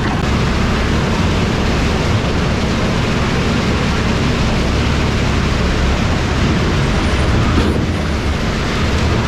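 Heavy diesel truck running with a steady low engine rumble and dense road noise.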